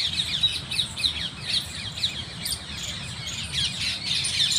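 Many small birds chirping together in a dense chorus: a continuous overlapping stream of short, high, falling chirps.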